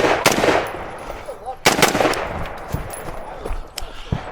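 Rifle shots fired during a timed match stage: two sharp reports, one just after the start and another about a second and a half later, each trailing off in echo.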